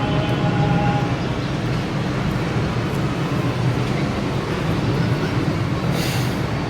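Steady low background rumble, with a brief hiss about six seconds in.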